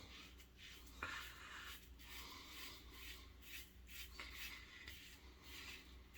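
Faint, short scraping strokes of a Gillette Red Tip double-edge safety razor with a Kai blade cutting stubble through shaving lather, about two strokes a second, with a small click about a second in.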